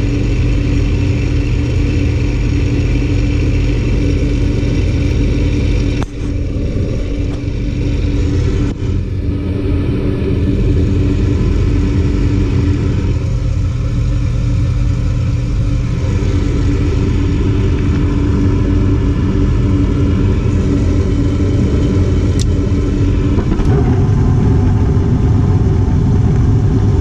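Carrier mid-efficiency gas furnace running with a steady motor hum, now powered from its newly fitted control board. There is a sharp click about six seconds in.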